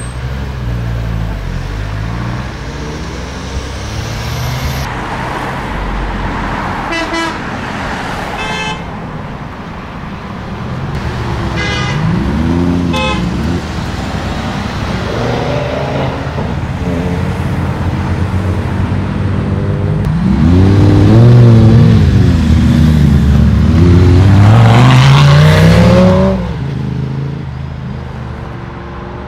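Sports car engines revving as cars pull away, with several rises and falls in revs. The loudest stretch of revving comes about two thirds of the way in and cuts off sharply near the end. Earlier, a few short toots of a car horn.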